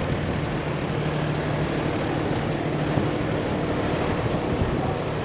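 A heavy truck's engine running steadily at an even pitch, under a continuous hiss of wind or road noise.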